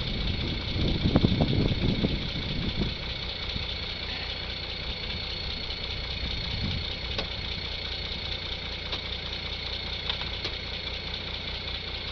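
A vehicle engine idling steadily with a low, even pulse. It is louder and rougher for the first three seconds or so, then settles.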